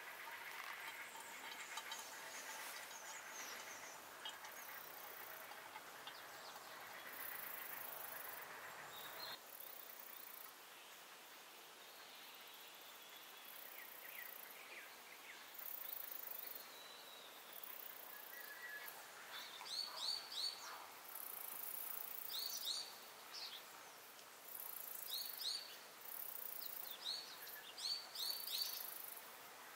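Outdoor ambience. For the first third a thin stream of water pours onto coffee grounds in a paper pour-over filter and then cuts off abruptly. From about two-thirds of the way in, a bird sings a short phrase of quick, high, falling notes, repeated every two to three seconds.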